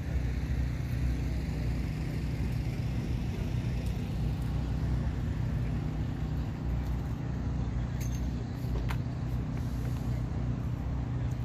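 Chevrolet Vega's engine idling steadily, with a couple of light clicks about eight seconds in.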